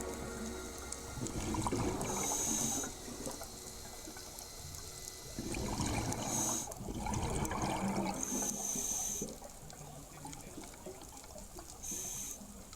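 Underwater sound of a scuba diver breathing through a regulator. Short high hisses on each inhale come back every few seconds, between longer rushes of bubbling exhaust.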